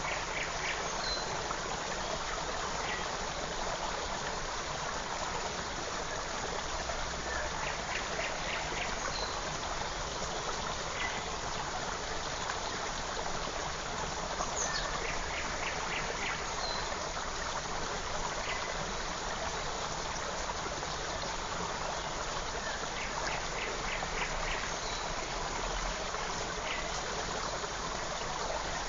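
Forest stream running steadily over stones, with a songbird singing short phrases of quick repeated high notes every several seconds.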